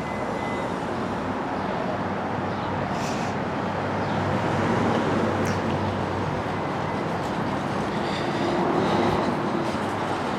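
Steady rumble of passing vehicle traffic, with no music or speech.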